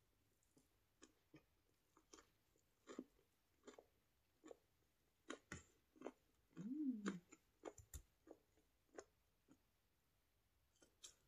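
Close-miked chewing of a mouthful of fried chicken wing: soft wet mouth clicks and smacks at irregular intervals. About six and a half seconds in there is a brief hummed sound that rises and falls in pitch.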